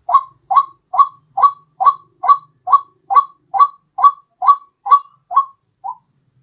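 White-breasted waterhen (ruak-ruak) calling: a steady run of short, loud, repeated notes, a little over two a second. The last note, about six seconds in, is fainter and shorter, and the series then stops.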